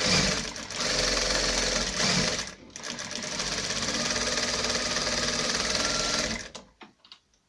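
Industrial sewing machine stitching a test seam in two runs with a brief pause between, then stopping. This is a stitch test after the bobbin (lower-thread) tension was tightened.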